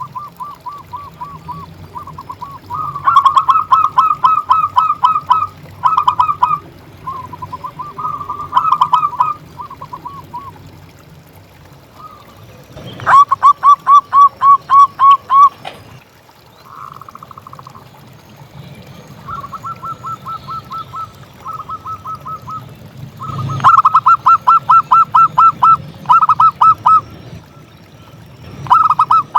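Zebra dove (perkutut) singing: bouts of rapid, evenly repeated cooing notes lasting one to three seconds each, some louder and some softer, with short pauses between them.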